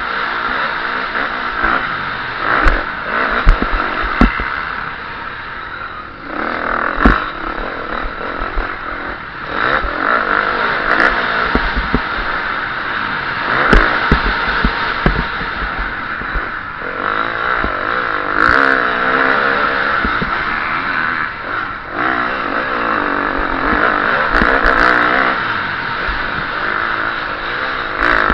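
KTM 350 SX-F single-cylinder four-stroke motocross engine revving up and down as the bike is raced. Sharp knocks from bumps and landings come several times in the first half.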